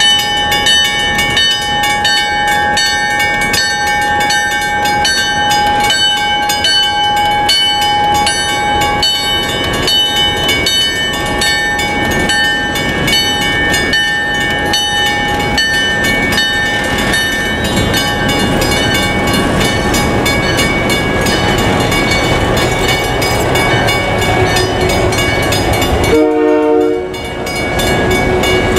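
Grade-crossing bell ringing rapidly as a diesel freight led by an Alco M420 and an EMD GP10 passes, the engines running under the bell. Steel hopper cars then rumble and clack over the crossing, and a short lower tone sounds twice near the end.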